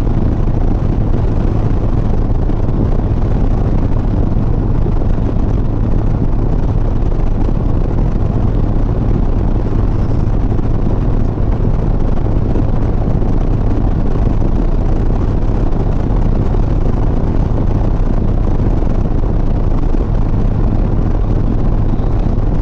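Harley-Davidson Sport Glide's V-twin engine running at a steady cruise, a constant low drone mixed with road and wind noise on the rider's microphone.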